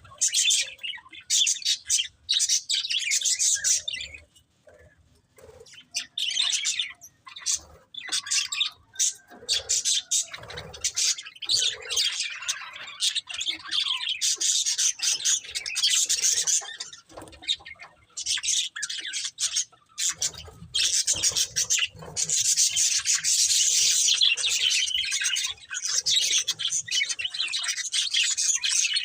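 Budgerigars chirping and chattering in rapid warbling runs, briefly quieter about four to eight seconds in, then near-continuous and loudest in the second half.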